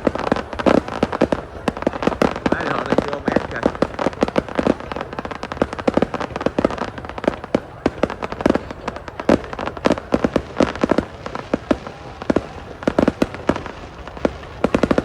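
New Year's Eve fireworks going off in a dense, irregular barrage of sharp bangs, one close on another.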